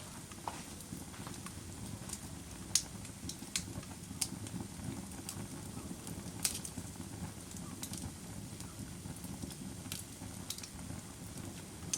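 Campfire burning, with a steady low rumble of flames and irregular sharp crackles and pops from the wood. The loudest pops come about two and a half seconds in and about six and a half seconds in.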